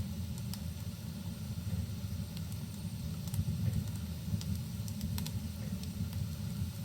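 Fireplace fire crackling, with scattered sharp pops and clicks over a steady low rumble, and a soft hiss of rain behind it.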